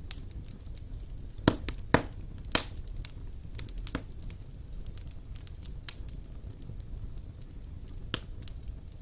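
Wood fire burning in a fireplace: a low steady rumble with irregular crackles and sharp pops, the loudest three close together in the first three seconds, then sparser.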